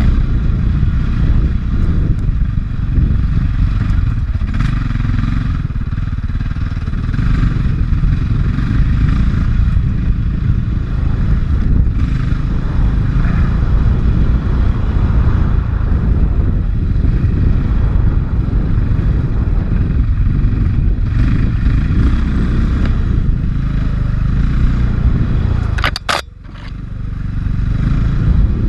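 450cc four-stroke enduro dirt bike engine running on a trail ride, heard from a helmet camera. Near the end the engine sound drops away briefly, with a sharp high-pitched click, before picking back up.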